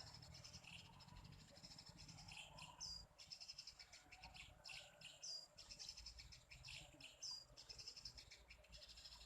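Small birds chirping faintly in short high notes, one hooked call coming three times about two seconds apart.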